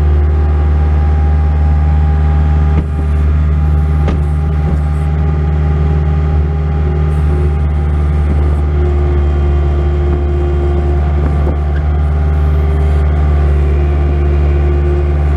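Bobcat S185 skid steer loader's diesel engine running steadily under load while plowing snow, a deep drone with a steady whine above it.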